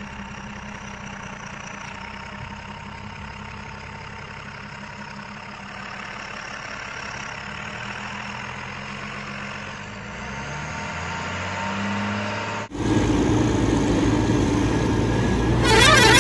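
Heavy diesel engine of a backhoe or tipper truck idling, then revving up with its pitch rising about ten seconds in. Shortly after, the sound cuts abruptly to a louder, busier recording.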